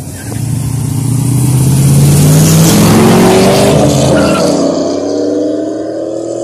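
Two V8s at full throttle: a tuned cateye Chevrolet Silverado on headers and a 3-valve Ford Mustang accelerate hard side by side past and away, their engine notes climbing in pitch. The sound is loudest about two to three seconds in, then fades with distance.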